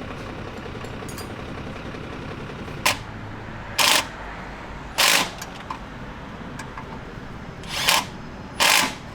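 Five short bursts from a pneumatic shop tool, each under half a second, the first very brief, over a steady background hum.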